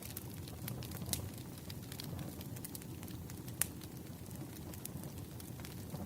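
Firewood burning with a steady low rumble and scattered sharp crackles and pops; the loudest pop comes about three and a half seconds in.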